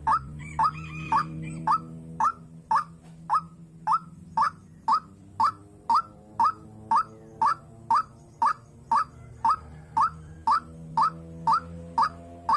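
White-breasted waterhen (dahuk) calling: one short note repeated very evenly about twice a second, over a faint low hum.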